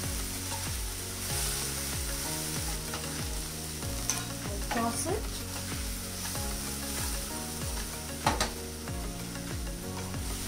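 Batter-fried fish pieces being stirred and tossed in a hot non-stick kadai of garlic, spring onion and green chilli sauce, sizzling, with a wooden spatula scraping the pan and one sharp knock about eight seconds in. Background music with a steady beat plays underneath.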